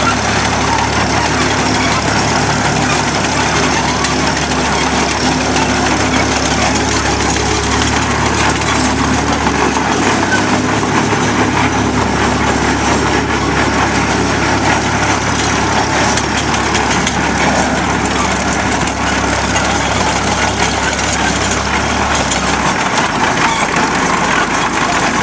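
An engine running steadily at idle, with a low drone that drops away near the end, over a background of voices.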